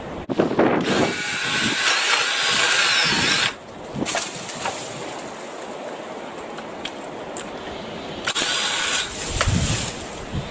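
Black+Decker 18V cordless saw cutting a tree branch in two runs, a longer one of about two and a half seconds near the start and a short one of about a second near the end, followed by a low thump.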